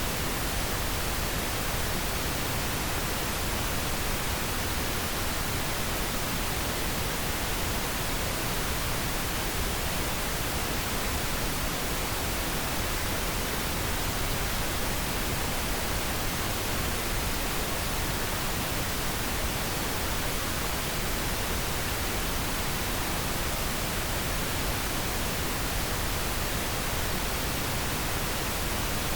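Pink noise: a steady, even hiss with no change in level or character.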